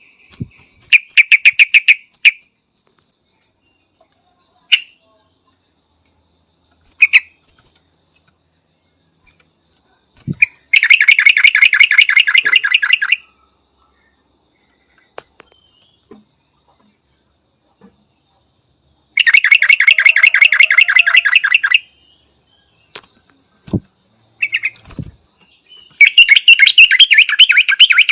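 Yellow-vented bulbul calling: four bursts of fast, evenly repeated notes, each lasting one to three seconds, with single short notes in the pauses between them.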